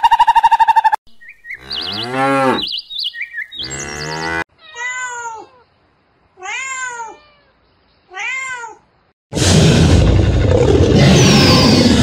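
A run of separate animal sound clips: after a short pulsing tone and some chirps, a domestic cat meows three times, each meow rising then falling, about two seconds apart. Near the end a loud, rough noise lasts about three seconds.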